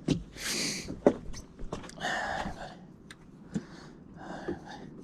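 A person breathing hard, three heavy breaths in and out, with scattered sharp clicks and snaps in between.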